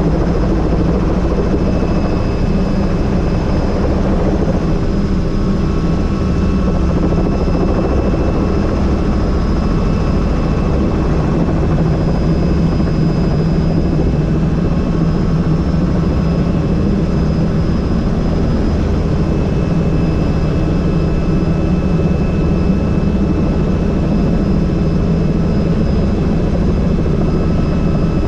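Helicopter in flight: steady, loud rotor and engine noise with a faint high whine running through it.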